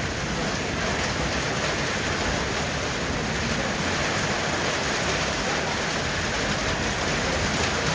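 Heavy rain falling steadily, an even hiss without breaks or thunderclaps.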